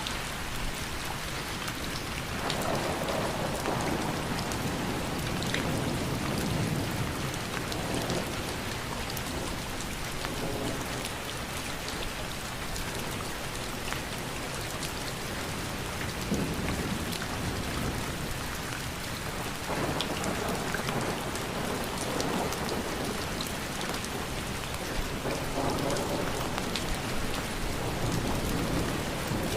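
Steady rain falling, with rolls of thunder that swell and fade several times.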